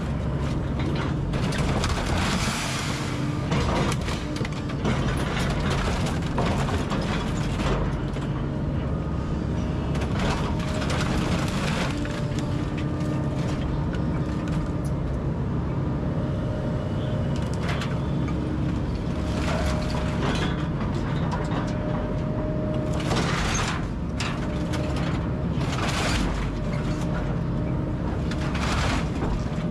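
Kobelco SK210 excavator running steadily with a hydraulic whine while it tears down a brick house, with repeated loud crashes and crunches of walls and debris being broken and dropped.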